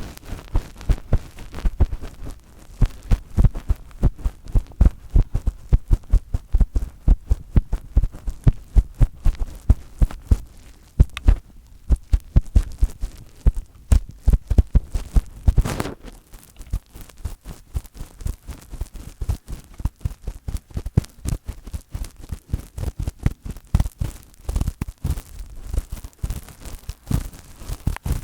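Fingertips tapping and rubbing directly on an ASMR microphone, making rapid soft bass-heavy thumps, several a second, in an uneven rhythm that thins out briefly about halfway through.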